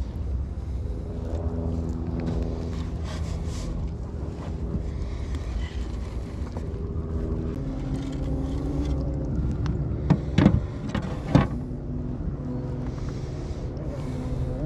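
Boat motor running steadily on the water, with two sharp knocks a second apart about ten seconds in.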